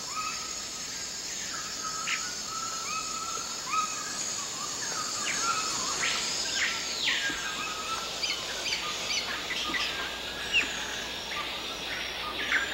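Rainforest ambience: various birds calling and whistling over a steady, high-pitched insect chorus, with one long whistle rising and falling about six seconds in.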